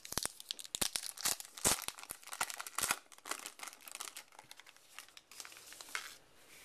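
Crinkling of a baseball card pack wrapper as the cards are handled. The sharp crackles come thick for about three seconds, then thin out and fade.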